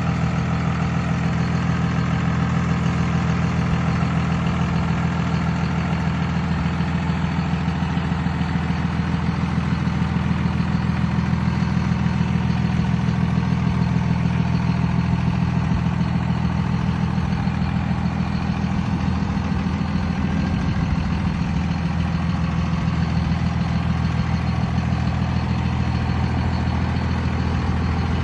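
24-valve Cummins 5.9-litre inline-six turbo diesel in a 2002 Dodge Ram 2500, idling steadily.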